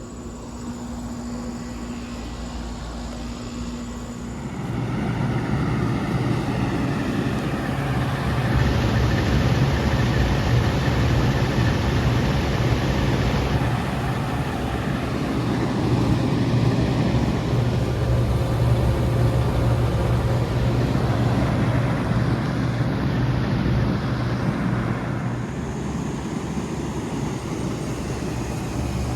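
Bard two-stage wall-mount heat pumps running: a steady compressor hum under the broad rush of the condenser fan. For the first few seconds it is instead residential outdoor heat-pump units running, with a fainter, steadier hum.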